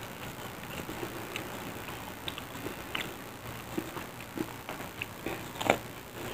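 Crispy fried tempe mendoan being chewed, with irregular small crunches and mouth clicks, and a louder crunch near the end as a fresh piece dipped in sweet soy chilli sauce is bitten.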